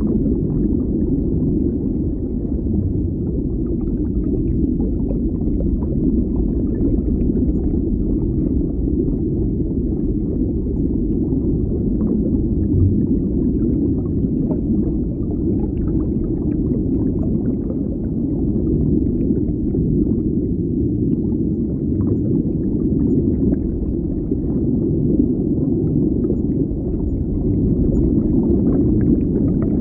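Underwater ambience: a steady low rumble of moving water with faint scattered pops and clicks.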